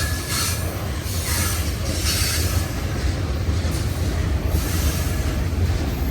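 Long freight train's cars rolling past: a steady low rumble with patches of high wheel squeal and hiss from the rails, coming and going about once a second in the first few seconds.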